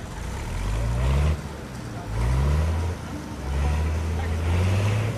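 Tractor engine accelerating under load. Its pitch rises three times and drops back between the rises.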